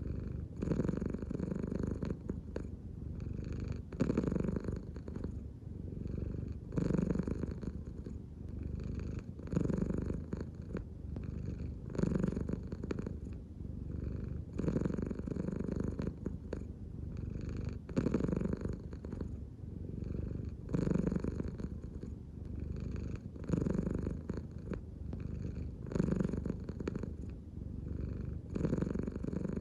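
American Shorthair cat purring steadily, the purr swelling and easing with each breath about every two and a half to three seconds: a relaxed cat breathing deeply from the belly.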